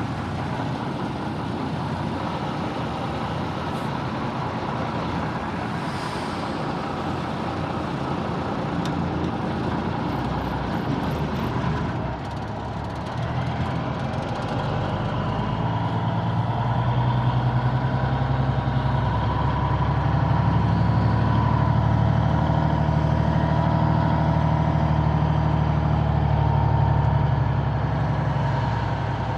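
Heavy diesel semi-truck engine running, with road and traffic noise. About halfway through, the engine's deep hum comes up louder and holds steady.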